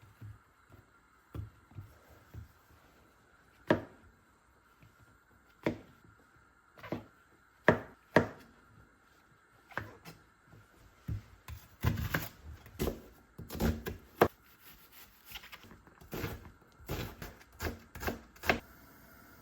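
Kitchen knife chopping on a cutting board in separate, irregular knocks, sparse at first and coming faster through the second half.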